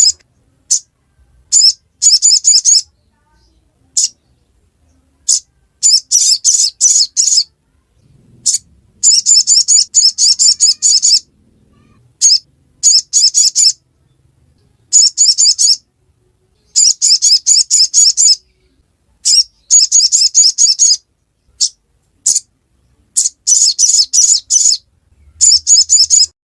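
Little spiderhunter (sogok ontong) singing its fast, high 'ngriwik' chatter: bursts of rapid chirps a second or two long, repeated again and again with short pauses between.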